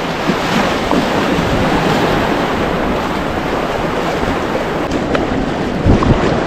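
Whitewater river rushing steadily, running high at about 4560 cfs, with a few short knocks and thumps near the end.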